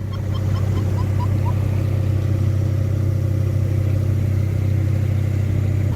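Boat engine running steadily with a low, even hum. A quick string of short high chirps sounds in the first second and a half.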